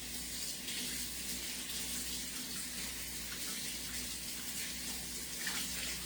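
Sink faucet running in a steady rush of water as hands are washed under it.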